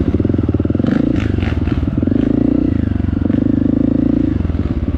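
Honda CRF 250 four-stroke trail bike engine running under throttle, its pitch holding fairly steady, with a brief clatter about a second in.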